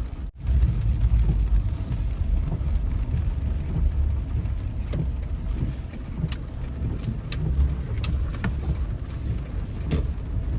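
Car driving, heard from inside the cabin: steady low road and engine rumble with scattered sharp ticks, and a brief drop-out just after the start.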